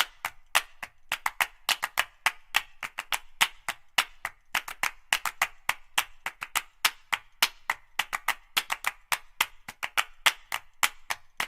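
A rapid, irregular series of sharp clicks, about five a second.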